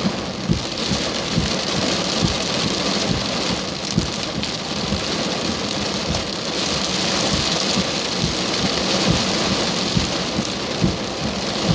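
Heavy rain pouring steadily, with frequent irregular thuds of large drops striking close by.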